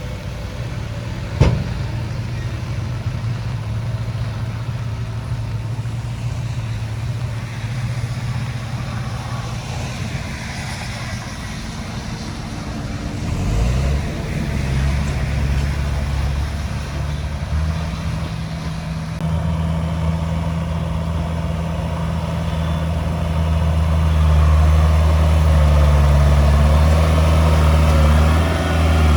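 Heavy diesel engine of earthmoving equipment running steadily. Its note shifts about halfway through and it grows louder near the end. There is one sharp click about a second and a half in.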